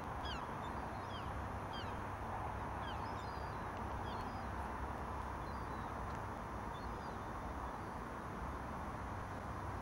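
Short, high bird calls, a quick run of them in the first few seconds and a few later, over a steady outdoor rumble and hiss.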